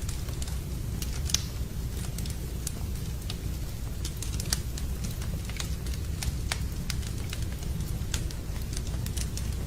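Wood campfire crackling, with irregular sharp pops and snaps from the burning logs over a steady low rumble.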